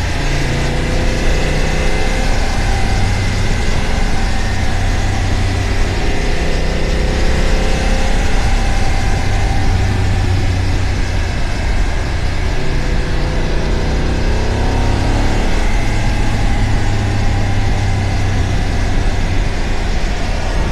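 BMW F900 GS Adventure's parallel-twin engine running under way. Its pitch climbs as the bike accelerates, a couple of times, with a steady rush of wind and road noise.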